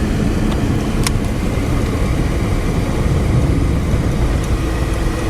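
Steady engine and road noise heard from inside a moving car, with a short click about a second in.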